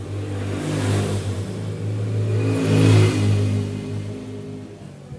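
A motor vehicle's engine passing close by, swelling to its loudest about three seconds in and then fading away.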